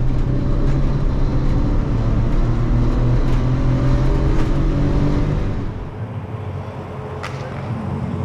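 Suzuki Alto kei car's 660cc engine running at a steady drone, then easing off about five and a half seconds in as the car slows. A single sharp click comes near the end.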